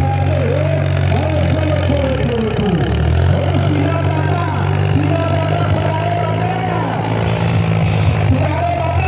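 Tractor engine running steadily and loud, its drone dipping briefly about two and a half seconds in, under many voices shouting at once.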